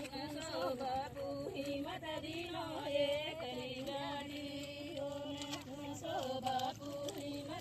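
Background music: a woman singing a melodic song with held, wavering notes.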